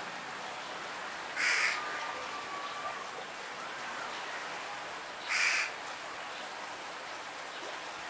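Two short, harsh bird calls about four seconds apart, over a steady background hiss.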